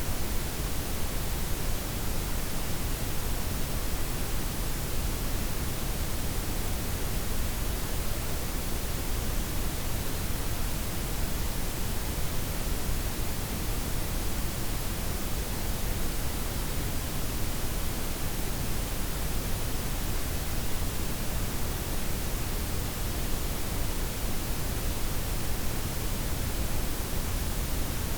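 Synthetic broadband noise for sleep masking: softened white noise blended with pink and brown noise, an even, unchanging hiss with a deep rumble underneath.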